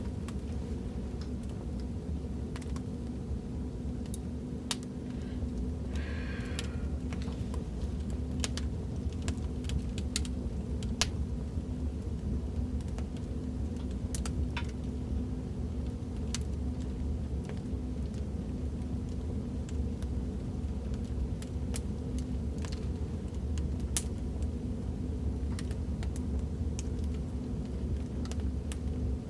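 Fireplace fire crackling: a steady low rumble with scattered sharp pops and snaps at irregular intervals.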